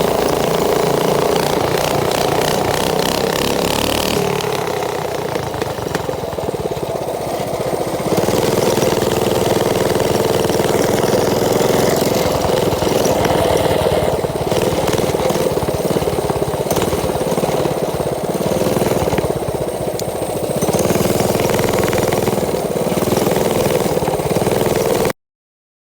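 Mini bike's small engine running, with its level rising and falling a few times as it is throttled. The sound cuts off abruptly near the end.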